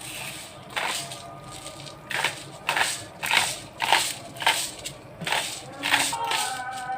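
A series of crisp crunching sounds, about one every half second, over faint background music.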